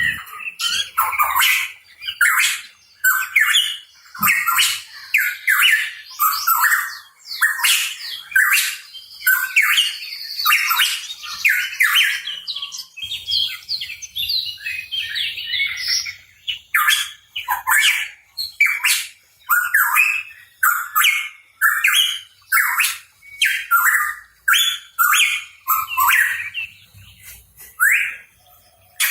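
Hooded pitohui calling: a fast, unbroken run of short chirping notes, several a second.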